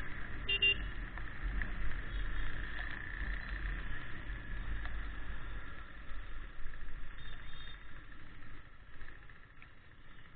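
Faint low rumble of a motorcycle on the move, easing after about six seconds, with two brief high tones, one near the start and one past the middle.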